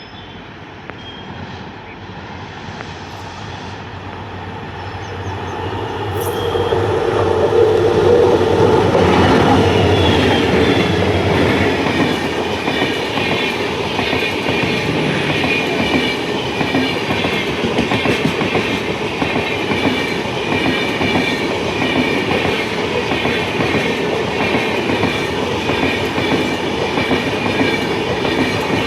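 A train approaching and passing close by: the rumble builds over the first several seconds, then runs on as a steady, rapid clatter of wheels over the rails.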